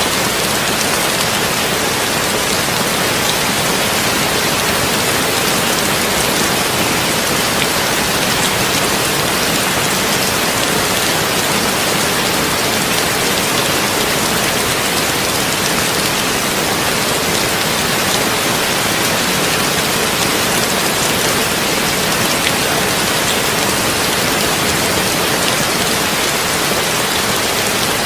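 Heavy rain drumming steadily on a tin roof, an even, unbroken hiss with no thunder.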